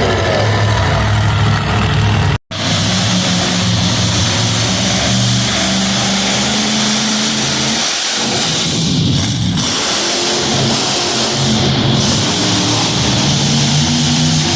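Monster truck engine revving up and down, with a brief dropout in the sound about two and a half seconds in. Music plays underneath.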